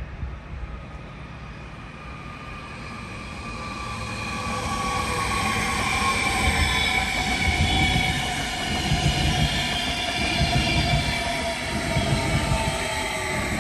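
A train approaching and running past on the rails, its rumble growing louder over the first few seconds. Several high whining and squealing tones that slowly fall in pitch ride over the wheel rumble.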